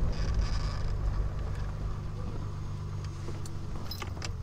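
Triumph Vitesse 2-litre straight-six engine running steadily at low speed as the car rolls to a stop, then switched off near the end, with a few sharp clicks.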